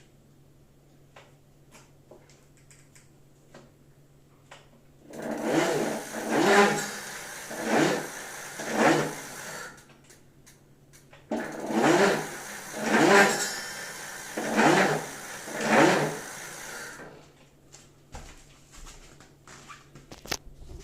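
Bafang 500 W electric bike motor humming steadily, then given two runs of about four loud bursts, each rising in pitch as the motor spins up. The loud drone is a resonance in the motor, which the owner takes for a fault.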